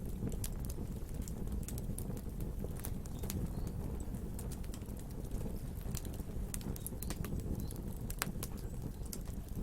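Wood fire burning: a steady low rumble of flames with frequent sharp crackles and pops of burning wood, a few louder pops near the end.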